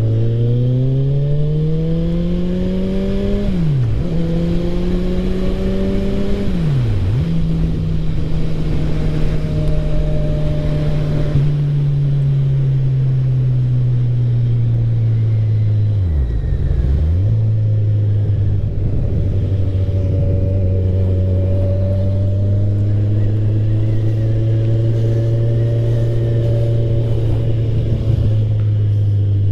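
Motorcycle engine accelerating hard through the gears: the revs climb and drop sharply at each upshift, three times, about 4, 7 and 16 seconds in. After the last shift the engine holds a steady cruising pitch, with wind rushing past.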